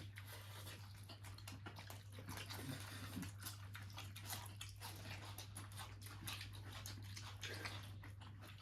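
Faint eating sounds, with chewing and the soft smack of rice and curry eaten by hand, over a steady low hum.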